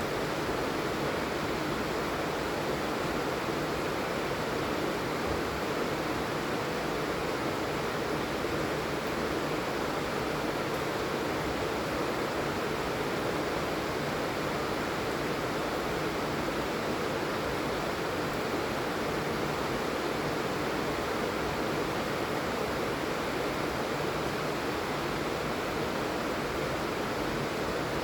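Steady heavy rain, an even hiss without pauses or changes.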